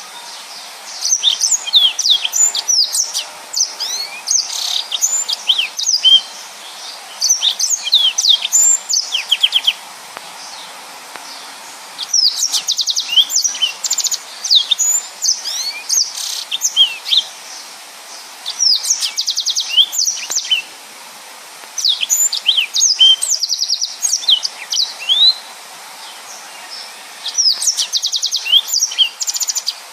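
Yellow-fronted canary (Mozambique canary) singing a fast, dense song in bursts of a few seconds with short pauses between, made of quick high sweeping chirps and rapid trills.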